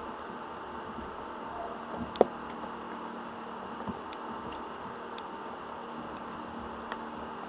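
Crackling electrostatic noise from a thunderstorm: a steady hiss broken by scattered sharp clicks, the loudest one a little over two seconds in, with fainter ticks around four and seven seconds.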